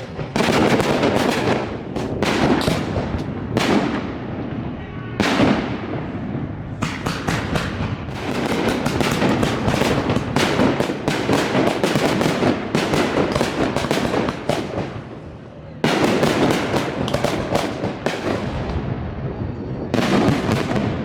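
Fireworks display: dense volleys of shells bursting and crackling, many bangs in quick succession with echoing tails. The bursts thin out briefly about three-quarters of the way through, then a loud new volley starts.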